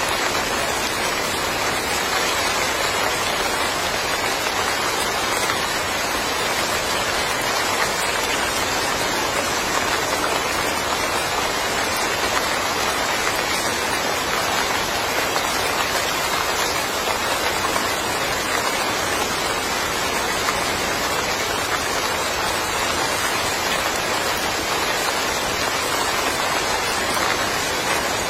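Steady, even summer rain falling on a yard.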